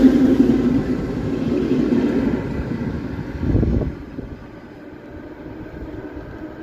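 ED4M electric multiple unit pulling away, its motors humming with a steady tone over the running noise of the wheels, fading as it moves off. A brief louder rush comes about three and a half seconds in, after which the train is quieter.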